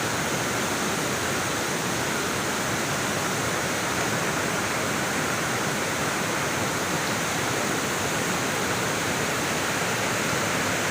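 Waterfall in heavy flow: a steady, unbroken rush of falling water.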